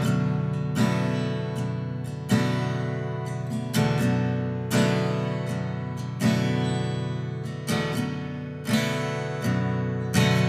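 Music: acoustic guitar strumming chords about once every second and a half, each chord left to ring and fade, with no singing.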